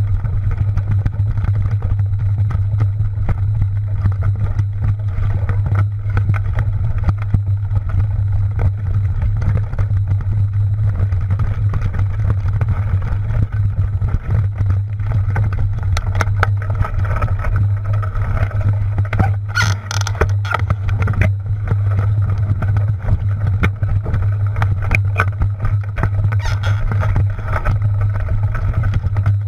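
Steady wind rumble on the microphone and tyre noise from a mountain bike riding a dirt trail, with more rattling and clicking in the second half.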